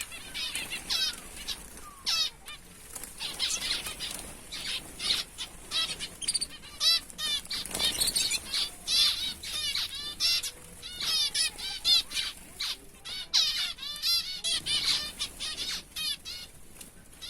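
A flock of small aviary finches, zebra finches and canaries, chirping busily with many short overlapping calls, with some fluttering of wings.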